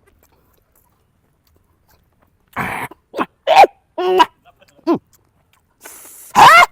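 A dog barking in a quick series of short barks and yelps, starting about two and a half seconds in, several of them falling in pitch.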